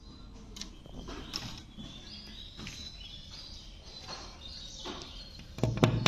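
Birds chirping, a few short high calls over low background noise; about five and a half seconds in, loud background music with guitar and drums starts.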